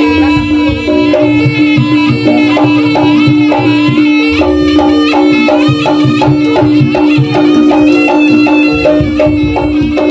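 Live Javanese jaranan ensemble music: a reedy shawm (slompret) melody over hand-drum (kendang) patterns, with a steady held note underneath. It plays loud and without pause.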